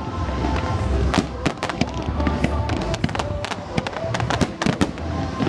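Fireworks going off in a rapid, irregular string of bangs and pops, over Christmas pop music playing from the show's loudspeakers.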